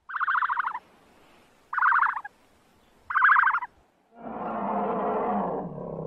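Three short animal calls, each a quick run of rapid pulses, about a second and a half apart. These are followed, about four seconds in, by a brown bear's low, rough growl that runs on.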